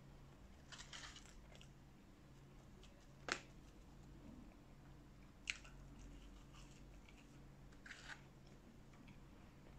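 Close-miked mouth sounds of eating McDonald's french fries dipped in ketchup: quiet chewing broken by a few sharp wet clicks and short crackles a couple of seconds apart.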